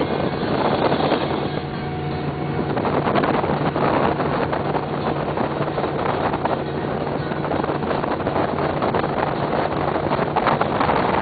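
Fountain powerboat under way: a steady engine drone with rushing water and wind buffeting the microphone.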